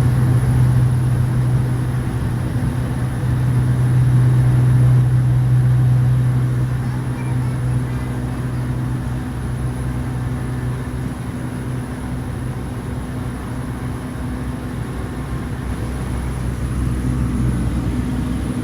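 Cessna 208B Caravan's single Pratt & Whitney PT6A turboprop engine and propeller running at takeoff/climb power, heard from inside the cockpit: a steady low drone with a thin high whine above it, easing slightly about seven seconds in.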